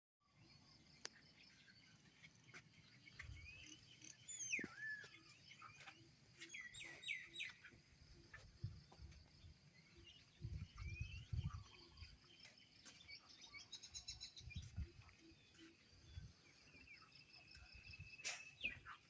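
Several birds chirping and calling with short, gliding notes over a faint, steady patter of light rain. Occasional low rumbles come and go underneath.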